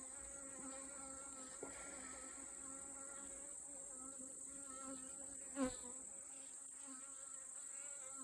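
Honeybees buzzing in a steady, wavering hum around an open hive, a sound the beekeeper takes for the colony getting aggravated. A single short knock about five and a half seconds in.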